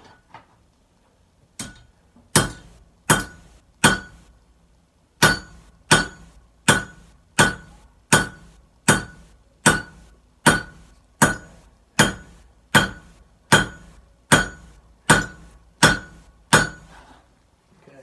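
Hand hammer striking hot Damascus steel on an anvil: about twenty blows in a steady rhythm, a little over one a second, each with a bright metallic ring, with a short pause after the first four.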